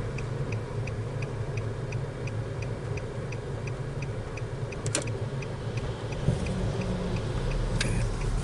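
Car's indicator flasher ticking steadily, about two to three ticks a second, over the low hum of the engine and road inside the cabin. A single sharp click comes about five seconds in.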